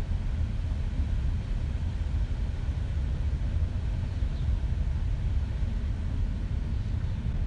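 A steady low rumble with no distinct knocks or changes.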